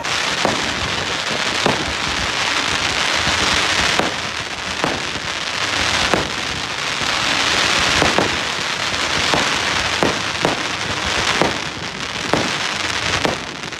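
Fireworks going off: a continuous crackling hiss with sharp bangs every second or so.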